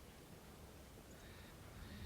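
Near silence: faint outdoor background hiss, with no helicopter audible.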